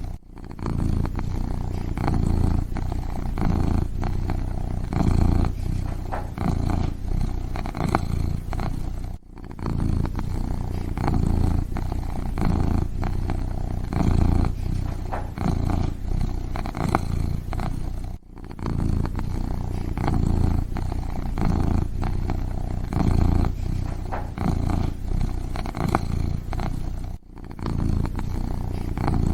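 Kitten purring steadily and close up, a low pulsing rumble, with a brief dropout about every nine seconds.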